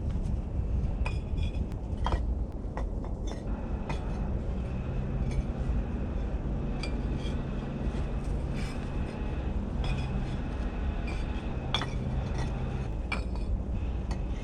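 Steel bricklaying trowel clinking and tapping against bricks, a string of sharp ringing clicks at irregular intervals. A low steady hum runs underneath from about four seconds in.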